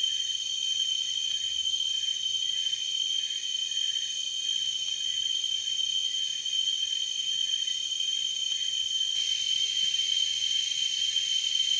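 Forest insects chirring in a steady chorus with a high, continuous tone. A second, pulsing insect layer under it stops about nine seconds in.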